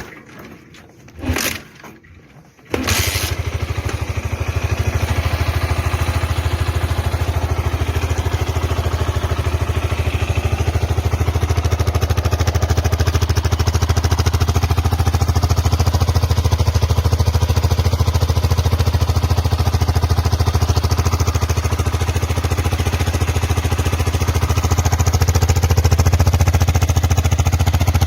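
Honda CB400SS single-cylinder engine and exhaust, starting up about three seconds in after two brief sounds, then idling steadily.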